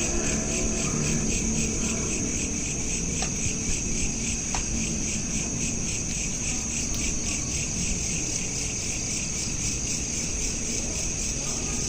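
Crickets chirping steadily in a dense, rapidly pulsing high chorus, over a low background rumble.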